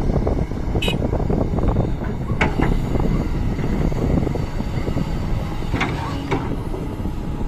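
Doosan DX225 hydraulic excavator working, its diesel engine and machinery making a steady, rough rumble. A few short high squeaks cut through about a second in, two and a half seconds in, and twice near six seconds.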